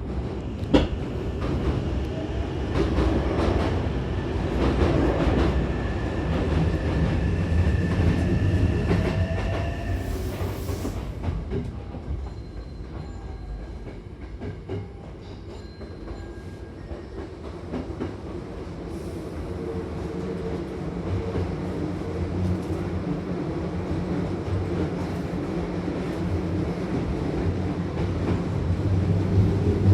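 Hankyu Takarazuka Line electric train running, heard inside the car: a steady rumble of wheels on rail with a sharp clack about a second in. Thin wheel squeal sounds from about six to ten seconds in. The running noise eases off in the middle, then builds again towards the end.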